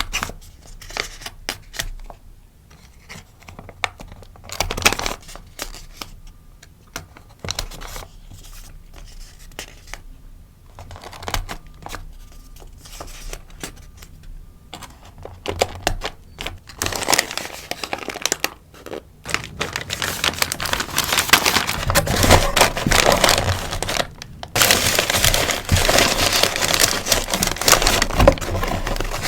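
Crinkling and rustling of sticker packaging being handled and wrapped. Scattered crackles at first, then continuous, louder rustling through the second half.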